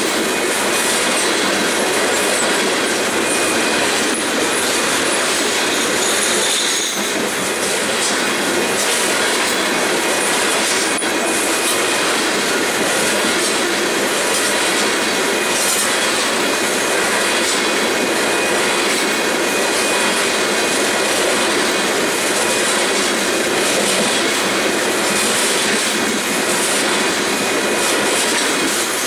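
Freight train of loaded grain hopper cars rolling steadily past: continuous loud wheel-on-rail noise with clickety-clack over the rail joints and faint thin wheel squeal.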